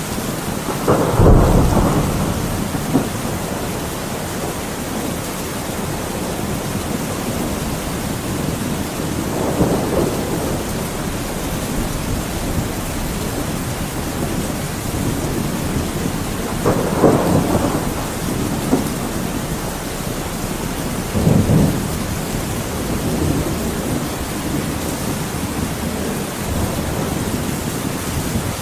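Thunderstorm: steady heavy rain hiss with four rumbles of thunder, the loudest about a second in and others near 10, 17 and 21 seconds.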